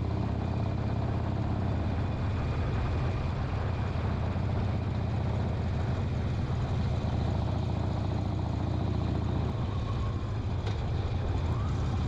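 Harley-Davidson Sportster XL 1200 Custom's air-cooled V-twin engine running steadily.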